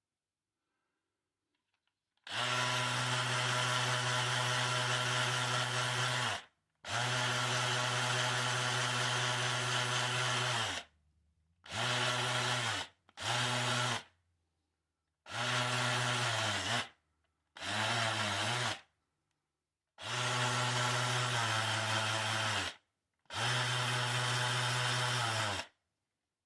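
Small handheld electric power tool running in eight bursts of about one to four seconds, stopping and starting again, a steady motor whine whose pitch sags slightly at times as it cuts into the basswood handle.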